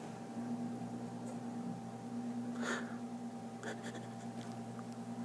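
Low steady hum, with two faint short noises a little past the middle.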